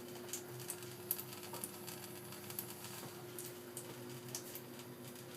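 Gas combi boiler running with a steady hum, and irregular light ticks scattered over it.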